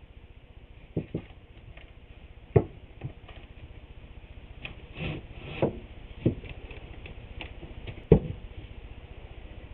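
Scattered knocks and clatter of wooden trim boards being handled and set down during a glue-up, with sharp knocks about two and a half and eight seconds in.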